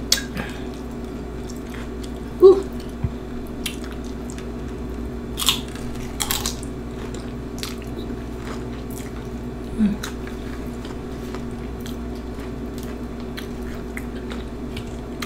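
Close-up chewing and crunching of Flamin' Hot Cheetos nachos eaten by hand, with a few sharp crunches spaced seconds apart over a steady low background hum. Two short vocal sounds from the eater, the loudest about two and a half seconds in and another near ten seconds.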